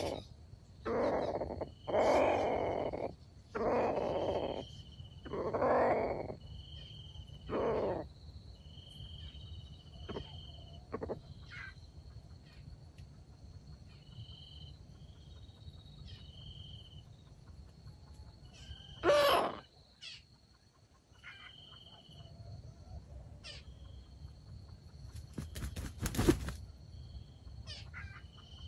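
Wild junglefowl roosters crowing, five times in the first eight seconds and once more past the middle, each crow about a second long. Underneath runs a steady high insect tone with short high bird chirps, and there is a brief rustling burst near the end.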